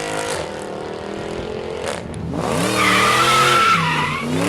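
Car engine revving up and down with tires squealing. It gets louder about halfway through, when the squeal comes in over the engine.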